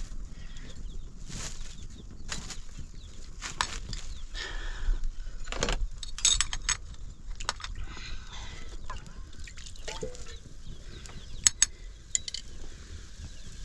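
Scattered short clicks and knocks, with short animal calls in between.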